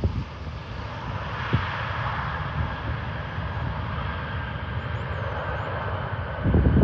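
Jet airliner engines running as a steady, distant-sounding roar, swelling a little about a second in. Wind buffets the microphone near the end.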